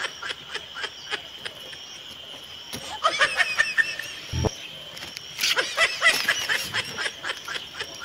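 Three short bursts of rapid, high-pitched giggling laughter, each about a second long, over a steady high-pitched whine; a single low thump about four and a half seconds in.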